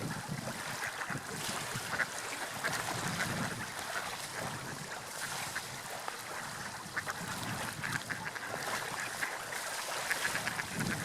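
Water lapping and splashing: a steady wash of noise broken by many small, sharp splashes.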